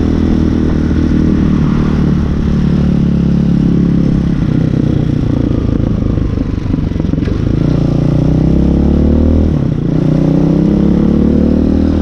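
Hawk 250 dual-sport motorcycle's single-cylinder four-stroke engine running while ridden, its pitch climbing as it accelerates. The pitch eases around the middle, drops sharply just before ten seconds, and climbs again.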